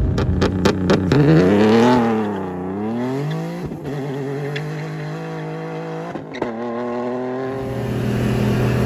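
Car engine sound with a few sharp clicks at the start. The engine note then swoops up and down in pitch and settles into a steady drone.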